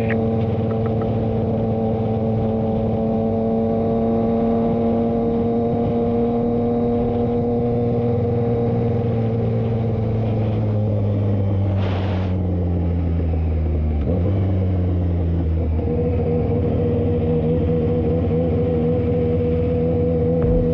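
Motorcycle engine running steadily while riding; its pitch falls as it slows about halfway through, then holds steady again. A brief hiss sounds just before the drop ends.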